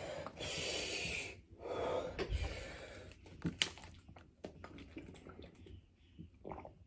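A man breathing hard through his mouth with two long hissing breaths early on, then quieter sniffs and small mouth clicks: panting to cool a mouth burning from an extremely hot chili chip.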